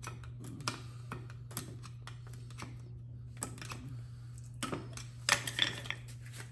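Scattered light clicks and taps of hand tools and small metal parts being handled while the sprayer is taken apart, with a quick run of taps near the end, over a steady low hum.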